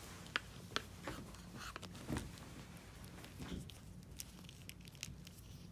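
A few faint clicks and taps of a plastic action figure being handled, over a low steady hum.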